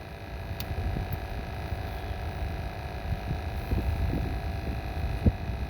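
Low, uneven rumble on the microphone with a steady faint hum underneath and a few light ticks.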